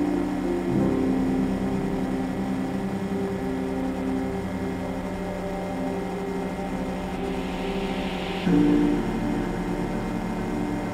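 Motorcycle engine running steadily at cruise, the parallel twin of a Yamaha R3, under ambient background music.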